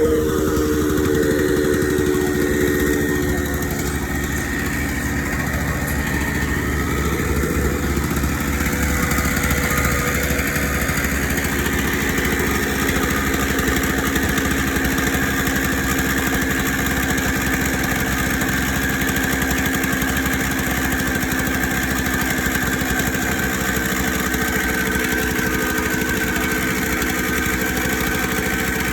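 An engine, probably on construction machinery, running steadily. Its pitch dips slightly and it eases a little in the first few seconds, then holds even.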